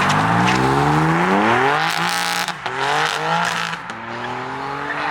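Turbocharged car engine accelerating hard, its pitch rising. About two seconds in there is a gear change with a short noisy burst, then the engine climbs again and eases off near the end.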